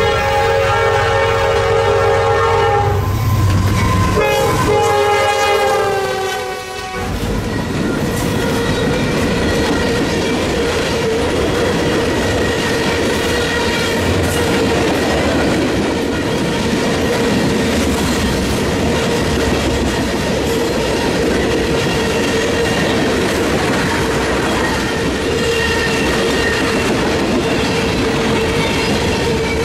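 Diesel freight locomotive's multi-chime horn sounding two blasts as it passes, the second bending down in pitch, then the freight cars of a manifest train rolling past with wheel clatter and a steady ringing tone from the wheels on the rails.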